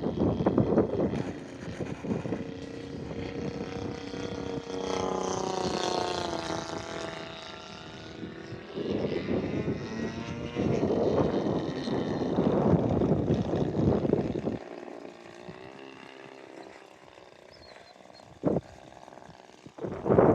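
Radio-controlled model airplane's motor droning in flight, its pitch shifting as it passes, between loud stretches of rushing noise.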